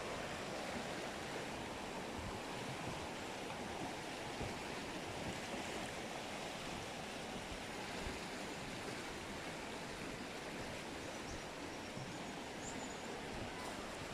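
Steady rushing of a spring-fed stream flowing along its channel, an even wash of water noise.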